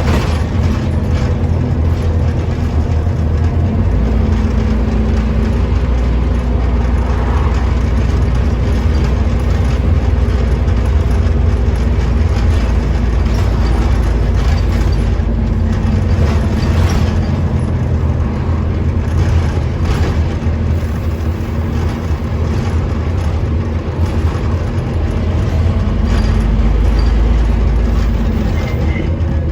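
Scania OmniCity bus running under way, a continuous deep engine drone that grows heavier about four seconds in.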